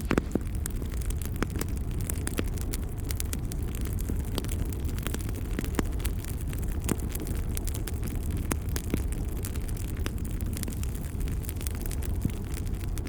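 Wood fire crackling, with sharp pops scattered irregularly through a steady low rumble.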